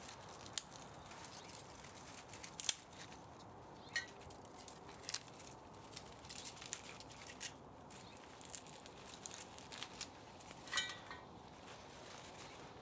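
Scattered clicks, snips and light clinks of hand work on scrap electric motor parts, with one short metallic ringing clink about eleven seconds in.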